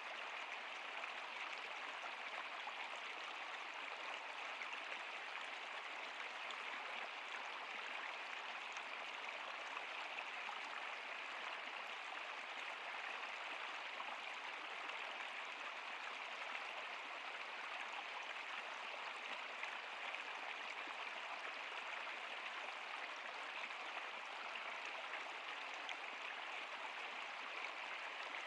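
Stream water flowing: a steady, even rush with little deep rumble and no breaks.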